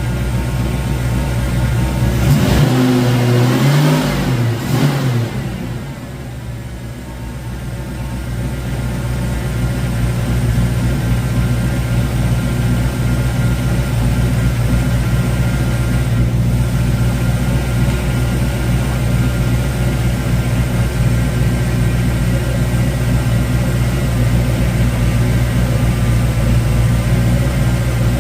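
A 1972 Mustang Mach 1's V8, fitted with a Crane 2040 cam and breathing through a single 3-inch exhaust with a Black Widow Venom muffler, is revved once about two seconds in, its pitch climbing and then falling back. It then settles into a steady idle.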